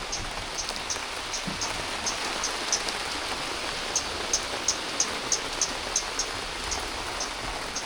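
Steady rain falling, with many short high-pitched chirps scattered through it.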